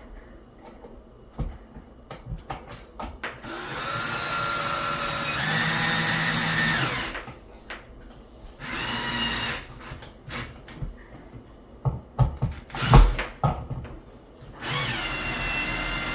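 Power drill-driver running in three bursts, driving screws to fasten a light switch back into its wall box. The first burst lasts about three seconds, and the last rises in pitch as it spins up. Short clicks and handling knocks come between the bursts.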